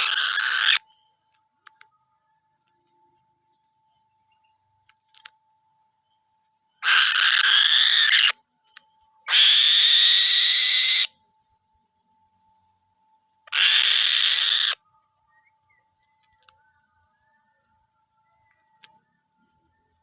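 A bird's harsh screeching calls, four of them, each lasting about one to two seconds with gaps between, over a faint steady hum.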